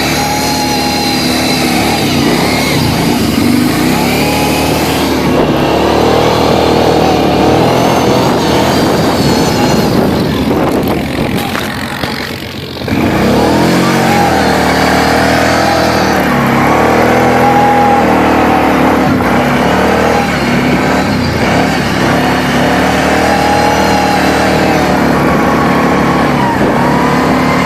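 Quad (ATV) engine revving up and down again and again under throttle, dropping off briefly about twelve seconds in before revving sharply back up.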